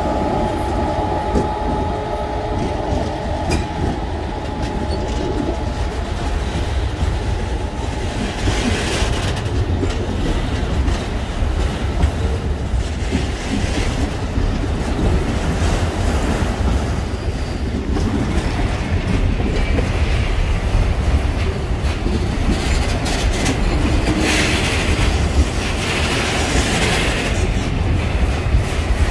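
Freight train of enclosed car-carrier wagons rolling past close by, with steady wheel rumble and clatter over the rail joints. At the start a steady hum from the passing class 18E electric locomotive fades out over the first several seconds, and patches of higher-pitched wheel noise come about ten seconds in and again near the end.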